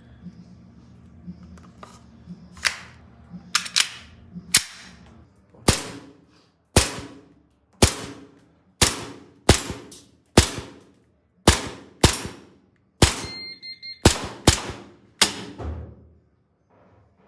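Glock 17 gas blowback airsoft pistol firing about twenty single shots, each a sharp crack with the slide snapping back. The shots come roughly a second apart and quicken into a faster string near the end.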